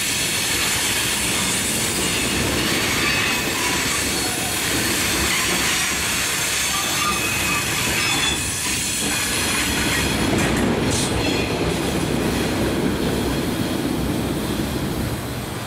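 Loaded Herzog ballast hopper cars of a rock train rolling past, steel wheels on rail with a thin high squeal over the steady rumble. The sound falls away at the very end as the last car clears.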